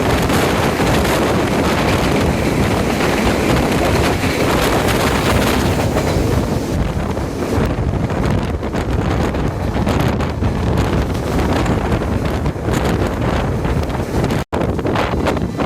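Wind rushing over the microphone over the steady rumble of a train running at speed. The sound cuts out for an instant near the end.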